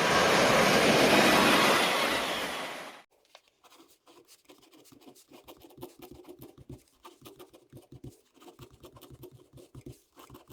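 A steady rushing noise that fades out about three seconds in, followed by faint scattered ticks and scratches.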